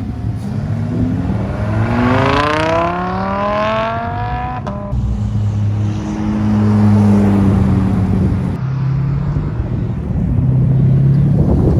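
A high-performance car's engine accelerating hard away, its pitch climbing steadily for about four seconds, then an upshift and a lower, steadier note as it pulls on in the next gear.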